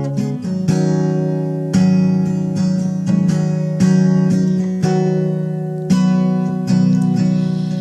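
Acoustic guitar being strummed and picked through a chord progression, each chord ringing out between strokes.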